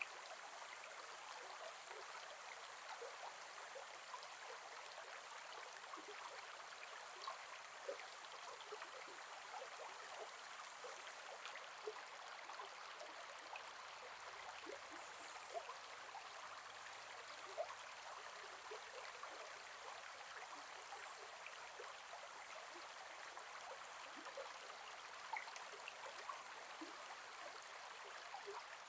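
Gentle forest river flowing over stones: a steady soft wash of water, dotted with small gurgles and drips.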